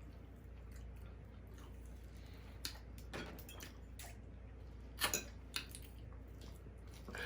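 A person chewing food, with a few short wet mouth clicks and lip smacks over a low steady hum.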